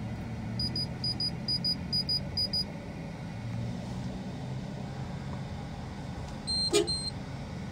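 Perodua Aruz's 1.5-litre four-cylinder engine idling with a steady low hum. About a second in come five short high electronic beeps, about two a second, and near the end a click between two more short beeps.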